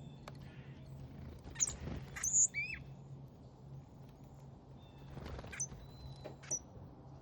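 Small backyard songbirds chirping and calling: a cluster of short high chirps and a clear multi-note call about two seconds in, and more chirps between five and six and a half seconds. A steady low hum runs underneath.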